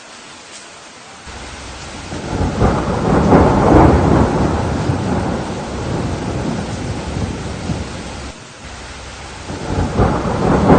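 Steady rain with rolling thunder. A rumble starts about a second in, builds to a loud peak a couple of seconds later and slowly dies away, and a second roll of thunder builds near the end.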